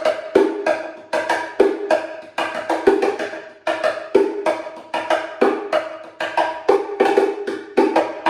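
Wooden bongo cajon played with the hands: a quick, even groove of about four strokes a second that moves between its two tones, a higher and a lower one, each stroke ringing briefly.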